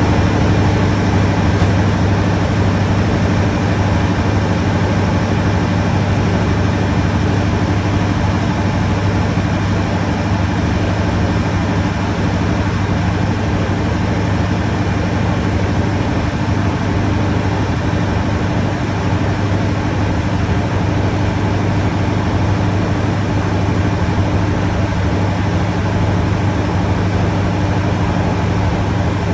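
MTU diesel engine of an HST power car running at a steady, unchanging note, with a thin high whistle held constantly above it.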